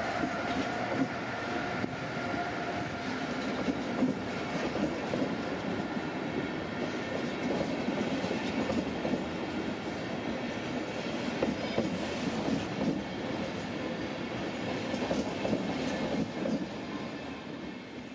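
Electric locomotive pulling an Intercity train out of the station, with the passenger coaches rolling past and their wheels clattering over rail joints and points. A faint steady whine fades away in the first couple of seconds.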